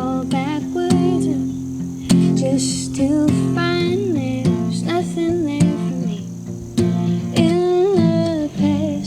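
Acoustic guitar playing a song's instrumental opening, with plucked notes that ring on in a melodic line.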